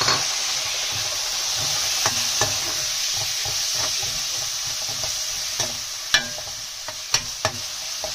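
Chopped tomatoes sizzling in hot oil with fried onions and spice masala in a non-stick kadai, being stirred in with a spoon. The spoon clicks against the pan several times, sharpest about six seconds in.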